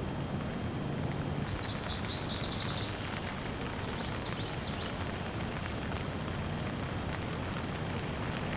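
Steady rain falling, with a songbird singing a fast high trill about a second and a half in and a shorter phrase a little later.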